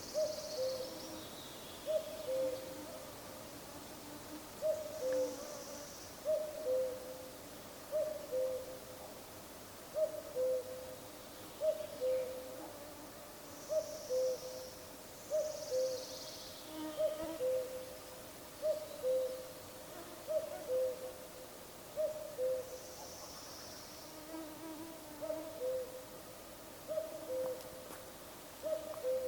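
Common cuckoo calling its two-note "cuc-koo" over and over, the second note lower than the first, about once every second and a half.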